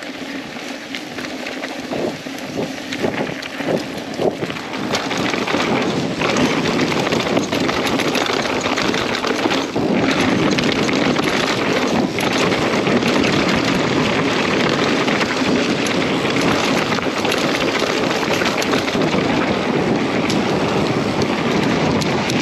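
Wind rushing over the microphone with the rolling noise of a mountain bike's tyres on a dirt trail. It grows louder over the first few seconds as the bike picks up speed, then holds steady, with scattered clicks and rattles.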